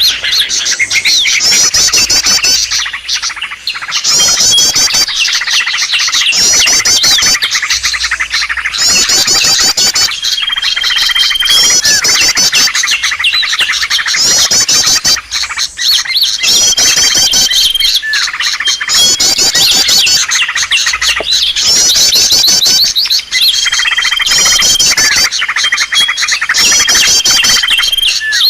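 Recorded lure call of small songbirds: dense, rapid high-pitched chirping phrases repeating every second or two, with a short level whistle recurring every few seconds, played loud to draw wild small birds in.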